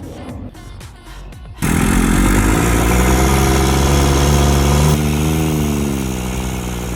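Daihatsu Hijet truck engine catching and starting about a second and a half in, then running at a steady fast idle that eases slightly lower near the end. It is running again on a freshly swapped carburetor.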